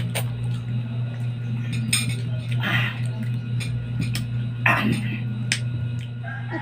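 Cutlery clinking and scraping against a plate or dish during eating: several sharp clicks and two short scrapes, over a steady low hum.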